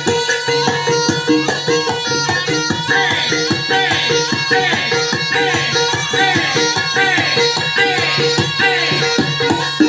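Live Barongan accompaniment music from a Javanese gamelan-style ensemble: hand drums beat a busy rhythm over sustained pitched tones, with a repeated wavering high melody joining about three seconds in.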